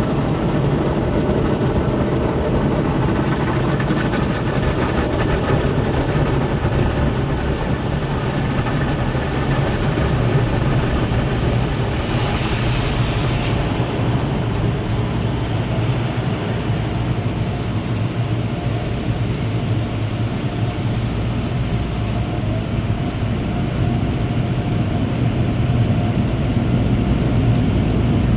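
Automatic tunnel car wash equipment working on a minivan, heard from inside the cabin: a steady, loud rumble of machinery and water, with a short burst of hissing spray about halfway through.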